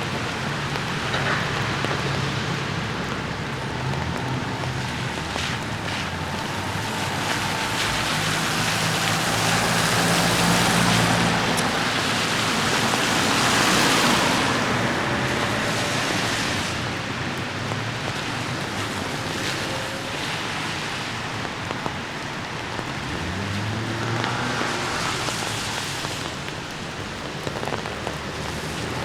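Steady rain falling on hard surfaces. Cars pass on the wet road twice, their engines and tyre hiss swelling and fading, around the middle and again near the end.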